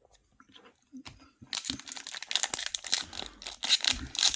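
Trading card pack wrapper crinkling as it is handled and torn open. It starts about a second and a half in and runs as an irregular, dense crackle.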